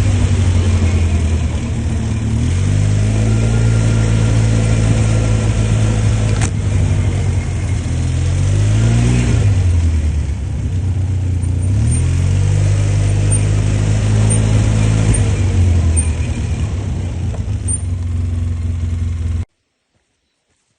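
ATV engine running, its note rising and falling several times as the throttle is opened and eased. The sound cuts off suddenly near the end.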